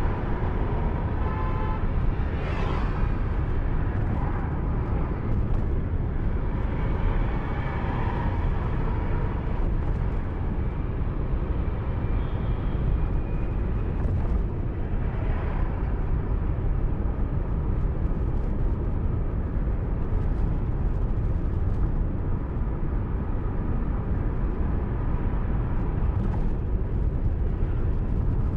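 Steady road and wind noise of a moving car, as picked up by the dashcam, with a few brief pitched tones over it in the first several seconds.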